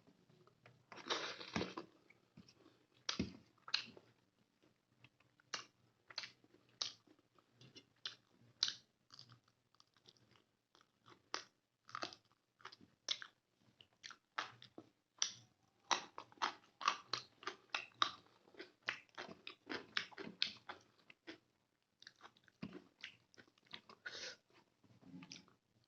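Close-miked chewing and mouth sounds of a person eating rice with chicken gravy: irregular wet smacks and clicks, several a second, with a brief pause near the end.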